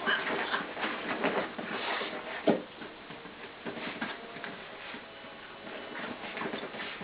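Two 12-week-old puppies play-wrestling: scuffling, with scattered taps of paws and claws on the floor and one sharper knock about two and a half seconds in.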